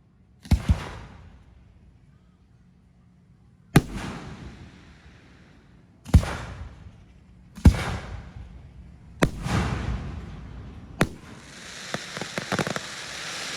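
Aerial fireworks shells bursting one after another, a sharp bang every second and a half to two seconds, each trailing off in a fading crackle and rumble; the first is a quick double bang. Near the end a steady crackling hiss builds under the bangs.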